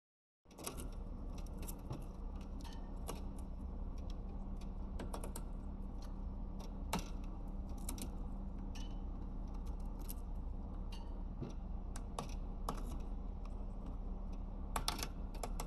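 Caique parrot gnawing a solid-wood perch: irregular sharp clicks and cracks as its beak bites into the wood, over a steady low hum.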